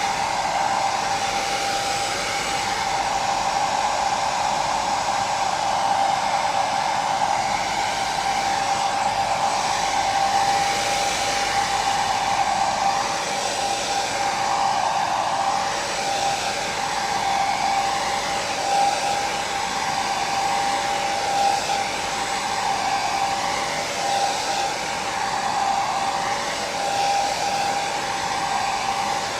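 Electric hair dryer running steadily, an even blowing noise with a high motor whine held on one pitch and a slight slow waver.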